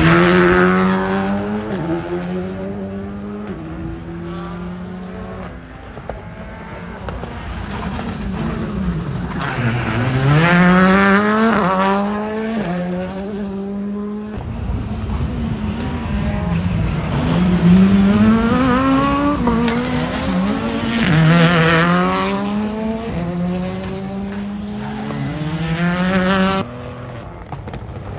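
Rally car engines run hard past on a circuit, several cars one after another, each climbing in pitch through gear changes and then dropping as it lifts off, with some tyre squeal. The sound cuts abruptly twice, about halfway through and near the end.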